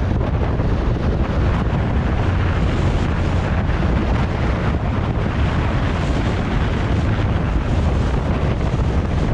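Wind buffeting the microphone of a moving motorcycle, with engine and road noise underneath, a steady, loud rumble.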